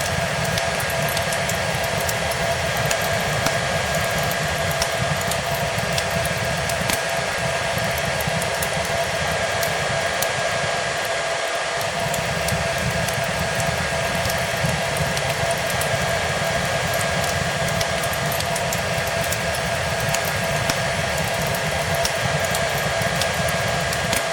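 A hair dryer running steadily, a whooshing airflow with a constant motor whine, mixed with the light scattered crackles of a fireplace.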